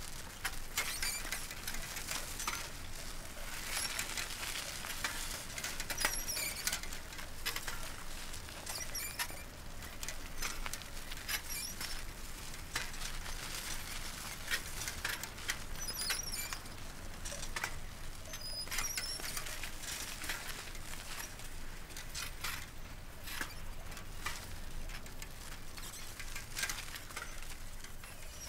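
Old bicycle being ridden over a dirt track: a light rattling with many short, high squeaks and clicks from the frame and wheels.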